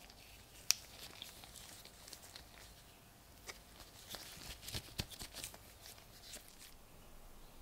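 Faint, scattered light clicks and taps of small hard objects being handled, with one sharp click about a second in and a quick cluster of taps past the middle.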